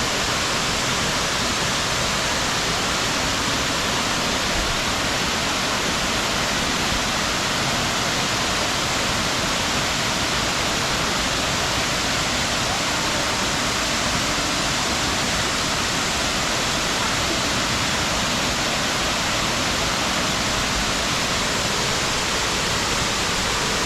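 Small natural waterfall pouring into its pool: a steady, even rush of falling water.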